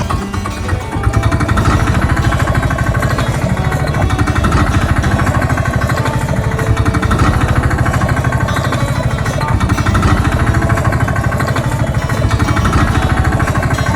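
An engine running steadily with a fast, even pulse, coming up to full level about a second in.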